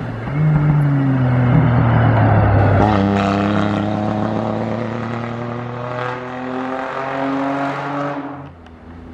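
Rally-raid car engine under hard acceleration. It revs up, shifts gear about three seconds in and pulls on steadily, then fades away near the end.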